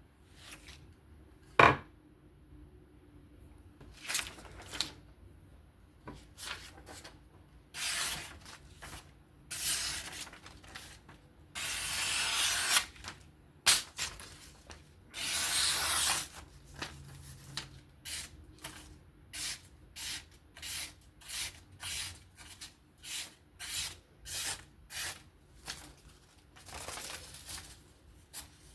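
Abrasive strokes of a fixed-angle guided sharpener's stone drawn along a knife edge: a sharp click about two seconds in, a few long drawn strokes, then a quicker run of short, even strokes, about one and a half a second.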